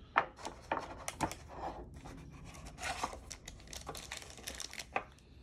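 Hockey trading cards being handled and flipped through by hand: a few sharp card snaps with light rustling of card stock and wrapper between them.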